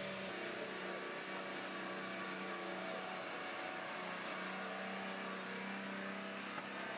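Toyota Land Cruiser engine running steadily at low speed as the vehicle crawls through deep mud.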